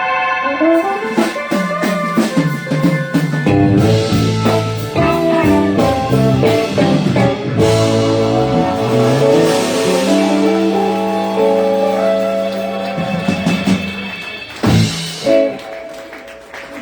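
Live band music with guitar and drums, notes held and moving over a steady beat. It thins out and gets quieter in the last few seconds, with a couple of loud hits about fifteen seconds in.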